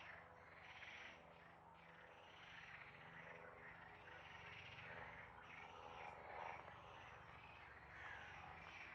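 Faint chorus of repeated animal calls, one after another every second or so, over a low steady hum.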